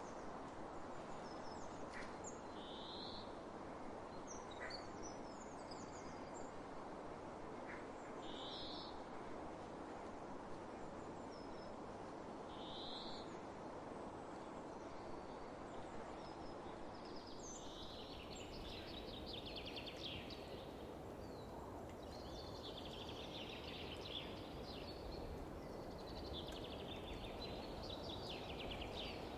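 Songbirds calling over a steady background rush of wind across open fields. In the first half a short high call repeats about every five seconds among scattered chirps; from a little past halfway, denser trilling song takes over.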